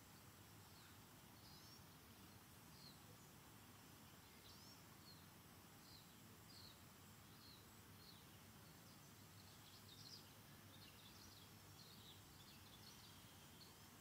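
Faint birdsong: short high chirps every half second or so, growing busier in the second half, over a soft steady hiss.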